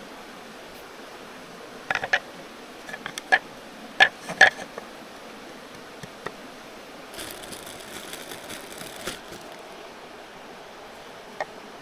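Camping gear being handled: several sharp clicks and knocks about two to four and a half seconds in, then a rustle for about two seconds, and one more click near the end. A steady stream murmurs underneath.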